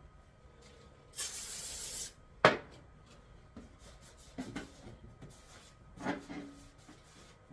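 A spray hiss lasting about a second, then a single sharp knock, followed by faint rubbing and handling noises while grease is cleaned off.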